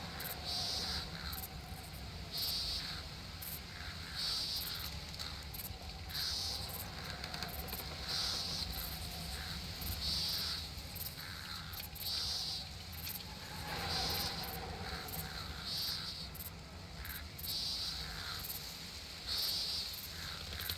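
An insect calls in short, hissy buzzes that repeat about every two seconds, over a steady low rumble of outdoor ambience.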